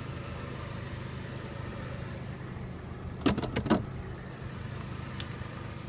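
A steady low hum, with a short voice-like sound about three seconds in.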